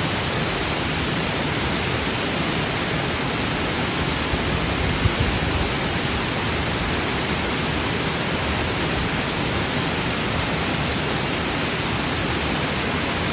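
Waterfall pouring close to the microphone: a loud, steady, even rush of water. A brief small knock comes about five seconds in.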